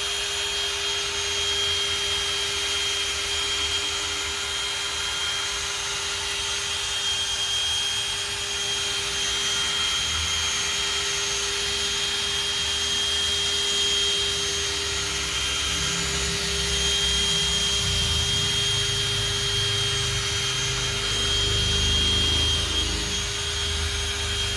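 Handheld power tool spinning a polishing pad on a plastic headlight lens, running steadily at one pitch with a constant whine. A lower rumble grows in the second half as the pad works the polish into the lens.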